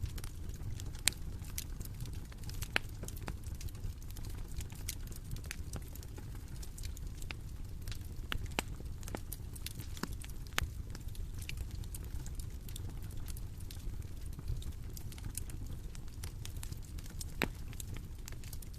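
Bonfire crackling: irregular sharp pops and snaps over a steady low rumble of burning, with a few louder snaps scattered through.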